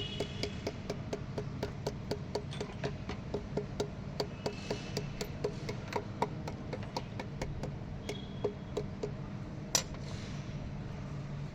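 Steady, evenly spaced clicking, about four clicks a second, over a low steady hum.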